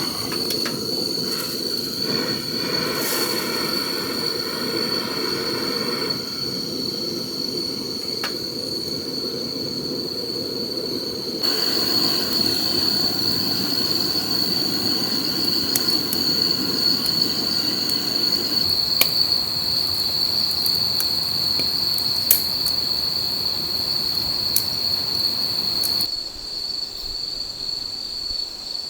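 Insects, crickets by their sound, trilling in a steady, unbroken high-pitched chorus. A low even rushing noise runs underneath for the first half and fades out.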